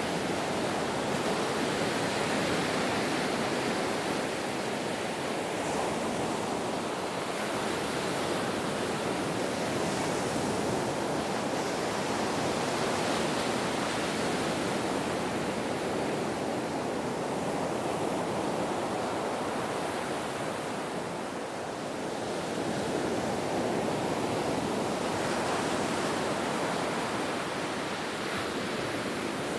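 Ocean surf: a continuous rush of waves that swells and eases every few seconds, with a short lull about two-thirds of the way through.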